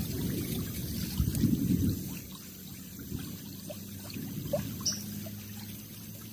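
Water sloshing and trickling, louder for the first two seconds and then settling quieter, with a few light clicks.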